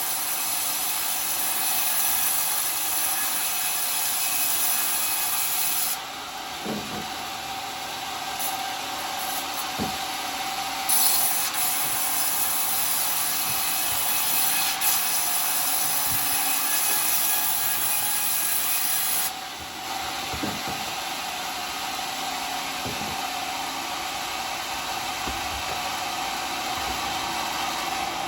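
Homemade circular sawmill cutting coconut wood, the blade running steadily with a constant hum. A bright, hissing cutting sound comes and goes: it runs until about six seconds in, stops, then returns for about eight seconds, with a few knocks in the gaps.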